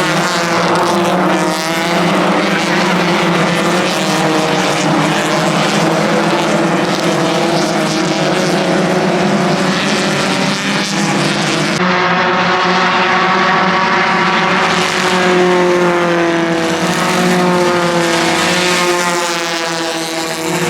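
Several Hyundai Excel race cars' four-cylinder engines running at high revs as a pack of cars races through a corner, with overlapping engine notes rising and falling as the cars pass and change gear. The sound shifts abruptly about twelve seconds in.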